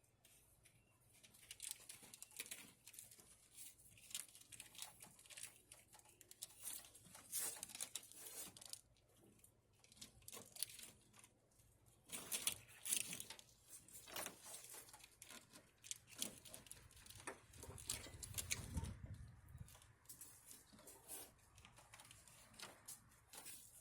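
Faint, irregular rustling and light clicks, with a dull low thump about nineteen seconds in.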